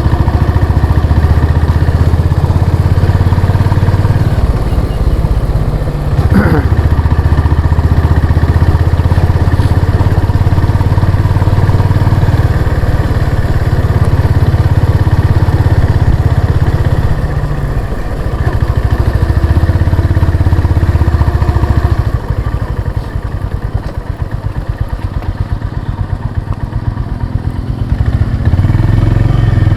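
Honda CB350 RS's single-cylinder engine running while the motorcycle is ridden, the throttle easing off for stretches and then picking up again near the end.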